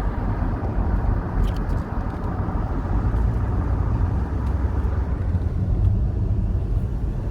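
Steady road and engine rumble inside the cabin of a moving vehicle.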